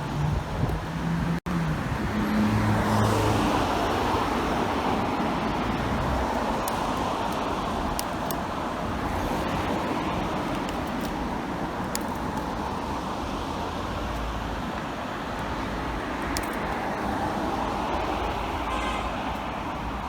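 City street traffic: a steady hum of passing cars and road noise, with a short low-pitched tone from a vehicle in the first few seconds.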